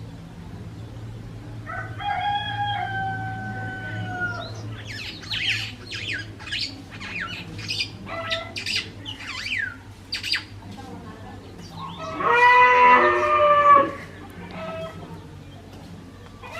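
Birds calling: two long, drawn-out calls, one about two seconds in and a louder one near the end, with a rapid run of short, down-sweeping chirps between them.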